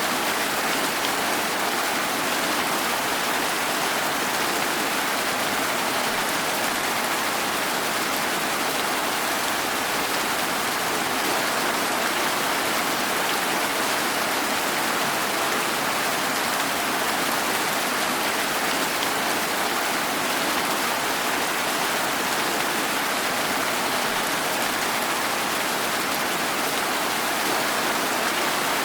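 Steady rain falling, an even hiss of many drops without breaks or changes.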